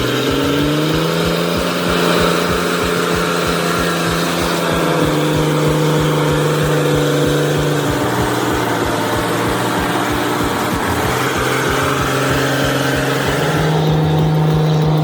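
Heavy truck diesel engine running steadily under load, its low hum holding a pitch with fast regular firing pulses, shifting up or down a few times along the way.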